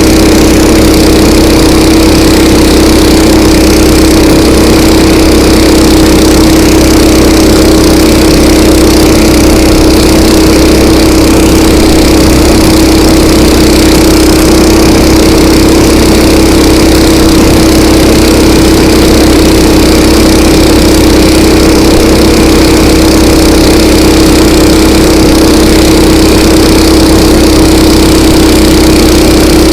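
Engine of a KOiRA all-season motorized tow unit running loud and close at a steady, unchanging pitch.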